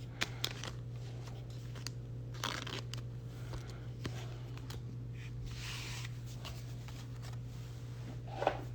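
Pokémon trading cards being handled and flipped through: soft slides and small clicks of card stock, with brief rustles a few times, over a steady low electrical hum.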